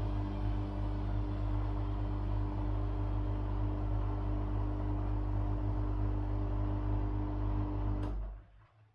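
Washing machine running: a steady low hum with a droning tone over a wash of noise, cutting off abruptly about eight seconds in.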